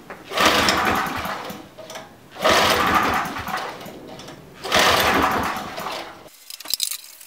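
Briggs & Stratton 5 HP generator engine pull-started three times on choke, each pull of the recoil starter spinning the engine over and letting it run down without catching. The engine will not start, which the owner puts down to stale fuel clogging the carburettor jets.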